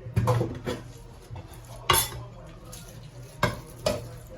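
Kitchenware being handled: about five sharp clinks of utensils against dishes, the loudest about two seconds in.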